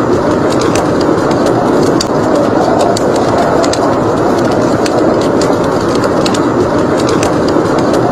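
Blizzard wind blowing in a steady roar, with a wood fire crackling over it in irregular sharp pops.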